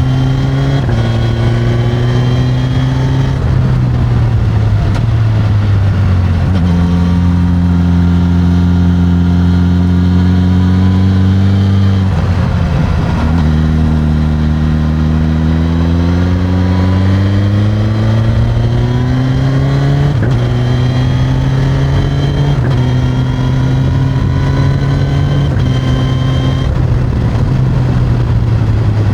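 Suzuki GSX-S1000's inline-four engine through its stock exhaust while riding: engine speed holds steady, falls away around 4–6 s and again about 12 s in, then climbs smoothly for several seconds and settles to a steady cruise.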